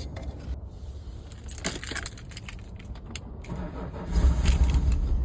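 Keys jangling in the ignition of a 1997 BMW E36, then about four seconds in the engine starts and runs, first start after the car sat with a dead battery that has just been recharged.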